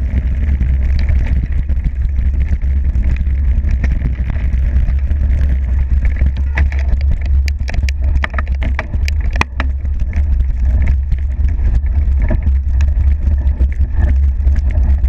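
Mountain bike descending a rough forest trail, heard from a GoPro: a steady low wind rumble on the microphone over the rattle of the bike, with a cluster of sharp knocks a little past the middle. Among them, by the rider's account, is the knock of the bike striking a stone, after which it goes briefly out of control.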